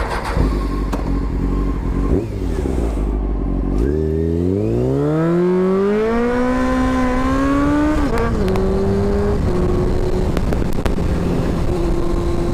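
Honda CBR600 F4i inline-four engine pulling away: it runs low for a few seconds, then revs up in one long rising note, drops in pitch about eight seconds in as the throttle eases or a gear changes, and settles into a steady cruising note.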